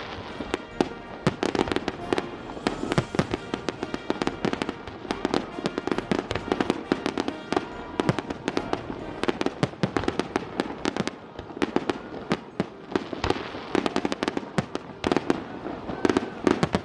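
A fireworks display going off in rapid succession: a dense run of sharp bangs and crackles with hardly a gap, with music playing underneath.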